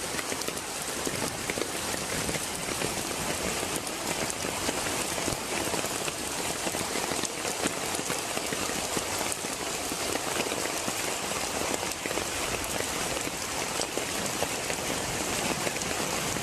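Heavy rain pouring steadily: a dense, even hiss of rain on the ground and surrounding surfaces.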